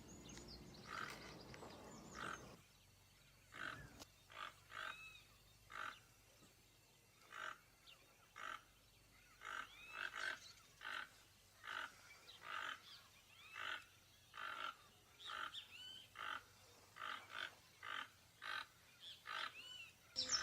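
Toucan giving a long series of short, repeated calls, about one to two a second.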